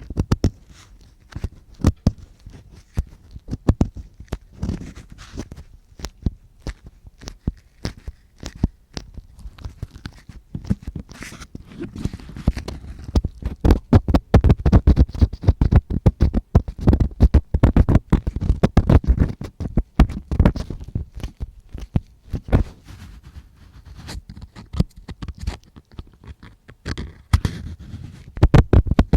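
Simulated ear cleaning: an ear-cleaning tool scratching and rubbing right against the microphone, a dense run of crackling scrapes and clicks that grows louder and busier in the middle stretch.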